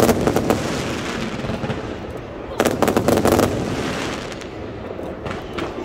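Aerial fireworks bursting in rapid volleys of sharp cracks: a dense cluster at the start, another about two and a half seconds in, then scattered single pops near the end.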